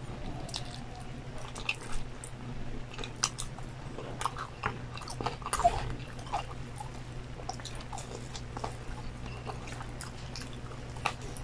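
Close-miked chewing of crispy fried chicken and rice, with scattered crunches and wet mouth clicks over a steady low hum.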